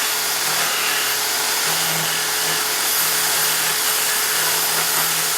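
A power tool motor running steadily: an even, hissy whir with a low hum underneath, holding the same speed throughout.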